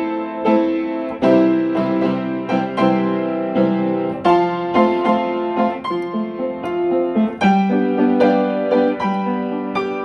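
Solo piano music: a steady run of struck notes and chords, each ringing and fading.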